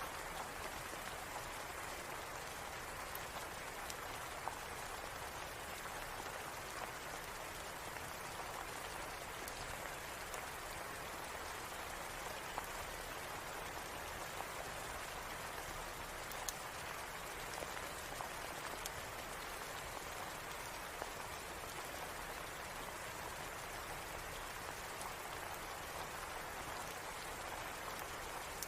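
Steady rain falling, an even hiss, with scattered single sharp ticks.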